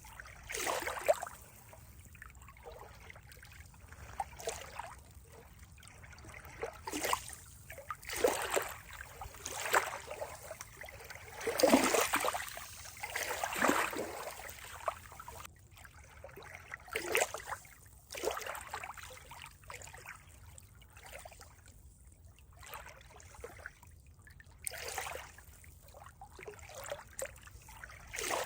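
Water trickling and splashing in irregular surges, some louder than others, over a faint steady wash.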